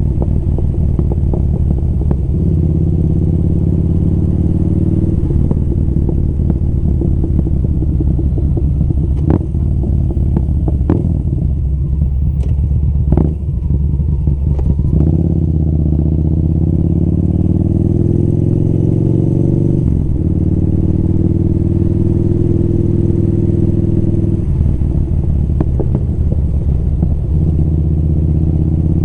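Motorcycle engine running while riding, its pitch stepping up and down several times through the stretch, with a few sharp clicks around the middle.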